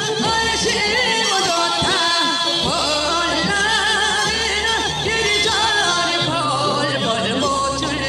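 Korean traditional folk singing, several voices at once with a strong wavering vibrato, singing continuously.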